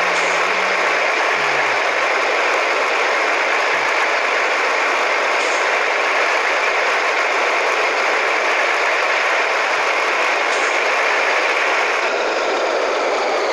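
Scania 113H truck's inline-six diesel running with a straight-through exhaust: a loud, steady exhaust noise.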